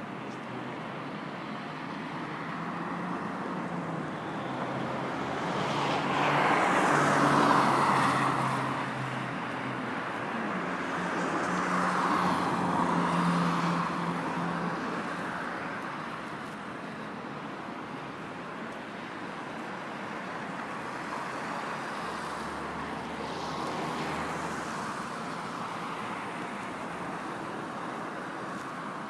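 Street traffic: cars driving past one after another over a steady road hum, the loudest passes about seven and thirteen seconds in, with another near the end.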